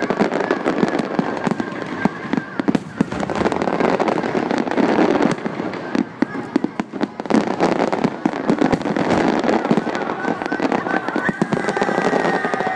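Fireworks display: a dense, irregular run of bangs and crackling shell bursts, with crowd voices underneath.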